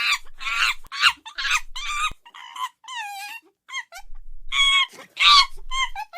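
Chimpanzee screaming: a run of loud, high screeches in the first couple of seconds, then smaller calls, then a second loud burst of screeches about four and a half seconds in.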